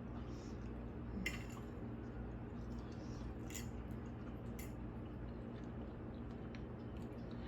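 Quiet indoor room tone: a steady low hum, with a few faint light clicks.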